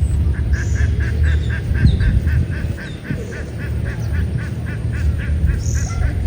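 An animal calling in a rapid, even series of short notes, about four a second, stopping near the end, over a steady low rumble.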